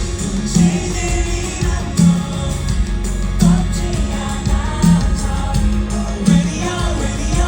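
Live band music with a singer, heard from the audience, with a low beat landing about every second and a half.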